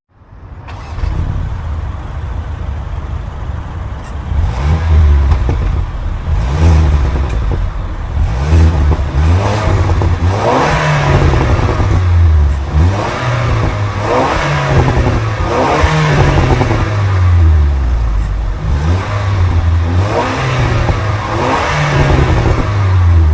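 Car engine revved over and over, its pitch climbing and dropping about every one to two seconds.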